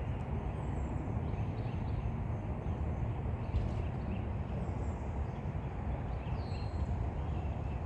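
Outdoor ambience: a steady low rumble with a few faint, short, high bird calls, one falling in pitch, scattered through it.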